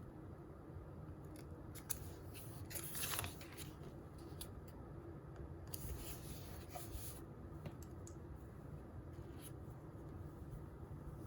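Quiet desk sounds of writing and handling paper: scattered light pen taps and scratches, with two louder paper rustles about three and six seconds in, over a steady low room hum.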